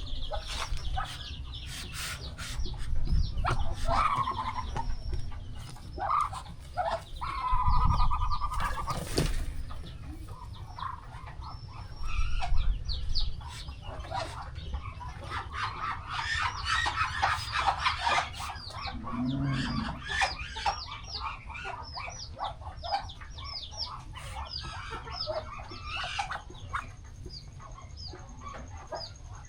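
Farmyard chickens clucking, with a dense chorus of high, rapid peeping from young poultry and a drawn-out hen call about eight seconds in. A low rumble runs underneath.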